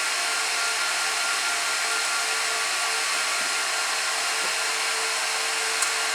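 Cooling fans of a Gigabyte R180-F34 1U rack server running at a steady high speed: a constant rushing whine with a few steady tones in it. A single faint click comes near the end.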